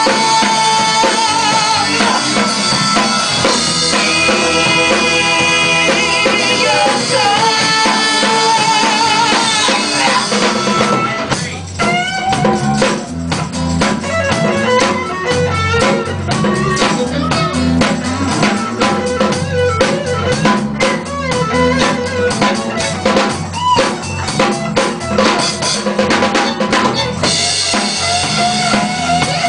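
Live rock band playing an instrumental passage. Sustained, wavering melody lines carry the first ten seconds or so, then the drums and bass drive on with dense, even hits, and a melody line returns near the end.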